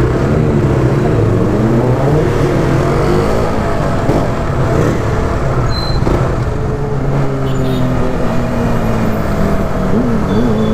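Motorcycle engines running on the road, their pitch rising and falling as the revs change.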